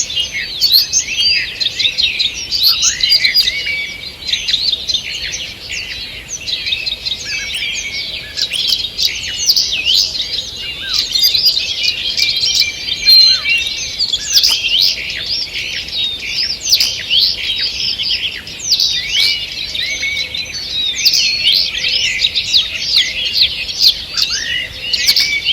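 Dawn chorus of many songbirds singing at once, a dense overlapping mix of quick chirps, whistles and trills.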